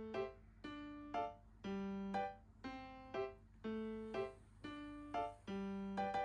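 Background music on a piano-like keyboard: a slow, even pattern of a low note followed by a higher note, repeating about once a second.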